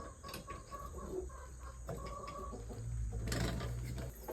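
A chicken clucking in short calls. A low hum starts past halfway and stops shortly before the end.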